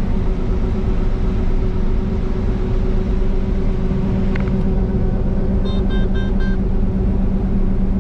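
Combine harvester running steadily, a constant engine and machinery hum as heard from the cab. About six seconds in there is a quick run of about four short electronic beeps.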